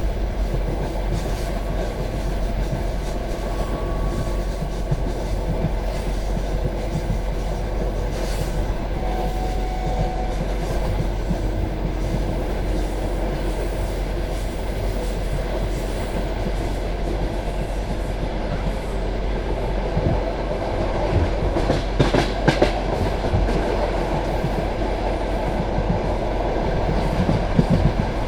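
Passenger train carriage rolling along the track: a steady rumble of wheels on rails with clickety-clack from the rail joints. A cluster of louder knocks comes about three quarters of the way in, and another near the end.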